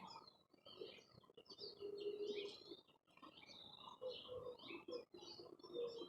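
A group of small songbirds chirping busily, many short overlapping chirps in quick succession, with a few lower held notes underneath.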